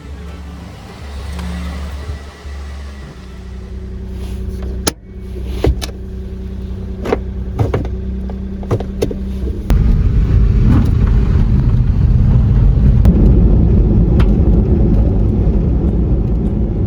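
Kei truck's engine idling with a steady hum and a few sharp clicks and knocks. About ten seconds in it pulls away, and a much louder low engine and road rumble takes over.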